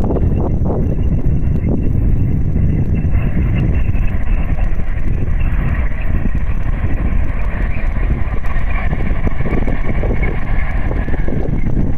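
A train passing close by, its wheels rumbling and knocking on the rails, with wind buffeting the microphone.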